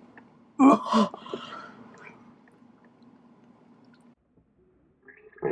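A woman gagging and retching on a mouthful of century egg. There is a short gag about half a second in, quieter mouth sounds after it, and a louder retch starting near the end.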